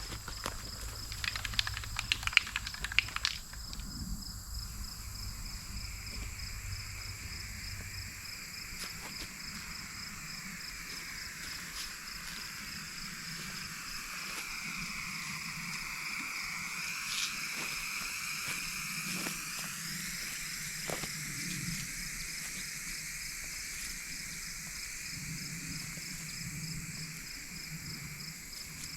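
A can of inverted marking spray paint rattling briefly as it is shaken, then a long hiss of paint spraying that fades later. Insects chirp steadily throughout.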